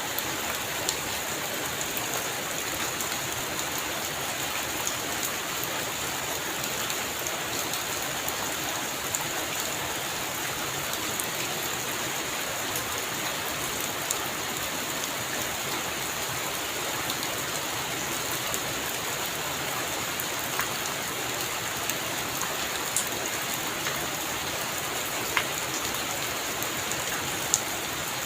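Heavy rain falling steadily on a roof, an even hiss with scattered sharp drop ticks.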